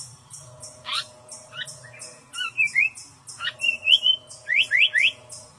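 A small bird calling: short sharp chirps and quick rising whistled notes, ending with three fast upslurred whistles. Behind it, a steady high pulsing chirr, about three pulses a second, like an insect's.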